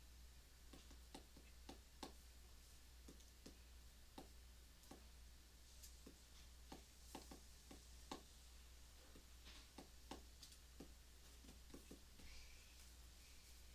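Faint sounds of drawing on paper: short, irregular ticks and taps a few times a second. A steady low hum runs underneath.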